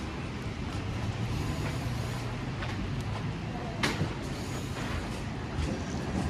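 City street traffic on wet roads: a steady low engine rumble, likely a bus idling, with tyre hiss swelling now and then, and one short sharp burst of noise about four seconds in.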